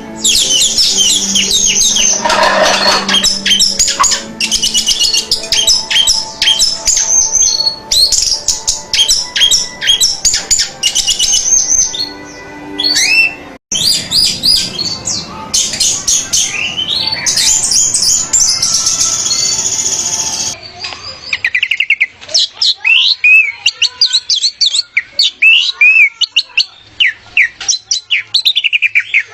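Orange-headed thrush (anis merah) song: dense runs of rapid, varied chirps and trills, pieced together from several recordings with an abrupt cut about 13 seconds in and another change of recording about 20 seconds in.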